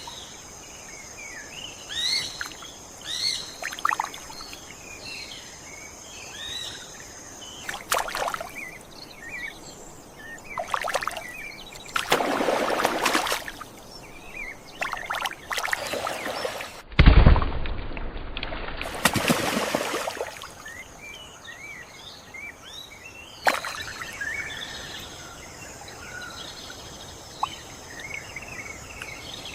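Swamp ambience of many small birds chirping and calling. Several rushes of noise sweep through the middle, the loudest opening with a deep thud about 17 seconds in.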